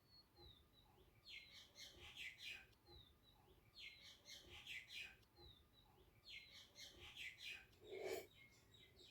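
A songbird singing faintly, repeating the same short phrase three times, each a downward note followed by a quick run of chirps, about two and a half seconds apart. A brief soft, low sound comes about eight seconds in.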